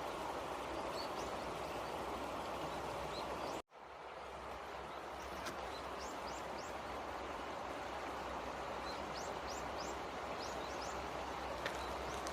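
A steady rushing noise with short, high bird chirps scattered through it; the sound cuts out for an instant about four seconds in.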